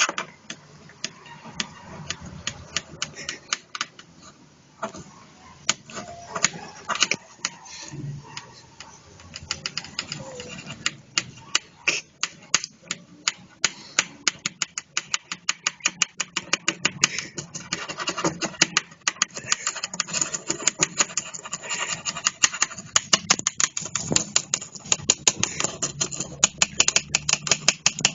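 A run of sharp clicks or taps, sparse at first and then speeding up to a quick, rhythmic patter of several a second through the second half.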